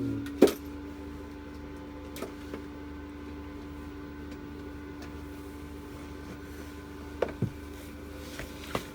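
A small electric motor hums steadily at one pitch. Over it come a few clicks and knocks: a sharp one about half a second in, and a couple more near the end.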